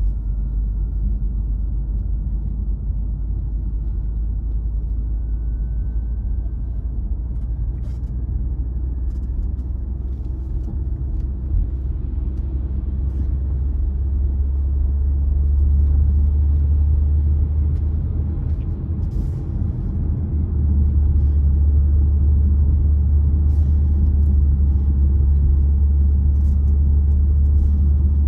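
A car driving at speed with a steady low rumble of engine and tyre noise and a faint, slowly rising whine. It gets louder about halfway through and again a few seconds later, with a few light clicks along the way.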